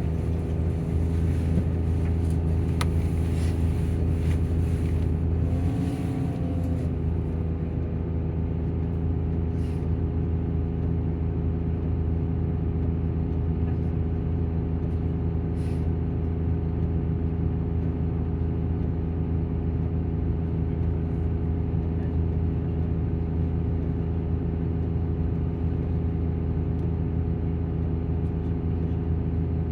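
Volvo bus diesel engine idling steadily with its engine cooling fan running, with a brief waver in pitch about six seconds in. Short air hisses twice.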